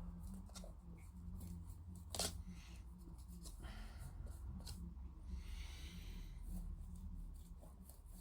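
Faint scratching of a flat paintbrush working an enamel wash over a plastic model part, with a few light clicks and taps; the loudest tap is about two seconds in.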